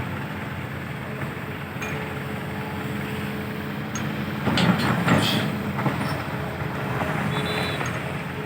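Heavy diesel machinery running steadily: the excavator and dump truck at work. About halfway through there is a louder, clattering rush lasting under a second.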